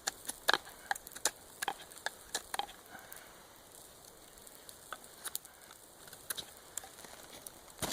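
Chicken sizzling on the hot coals of a wood campfire, with irregular sharp pops and crackles from the fire, thickest in the first few seconds.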